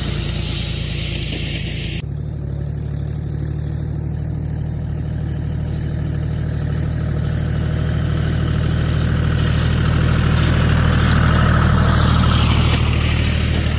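Tractor engine running steadily, with an abrupt change in tone about two seconds in and a slight swell in loudness near the end.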